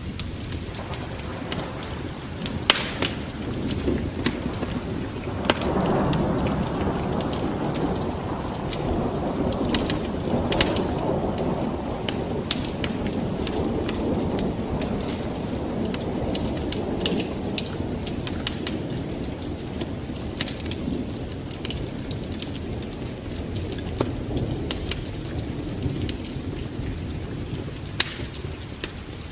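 Wood fire crackling, with frequent sharp pops, over a low rumble that swells about five seconds in and slowly dies away.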